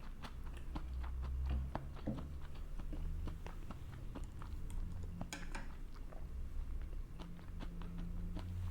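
Close-miked chewing of a mouthful of food, with a run of small wet mouth clicks and a denser burst of clicks about five seconds in, over a low steady hum.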